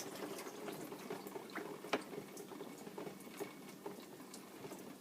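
Faint trickling and dripping of water inside a dishwasher just after a wash cycle, slowly dying away, with a few scattered sharp clicks.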